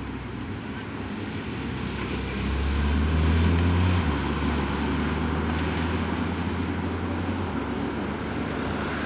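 A car engine running at low revs: a deep, steady rumble that shifts in pitch and level a few times, as the car idles or creeps along.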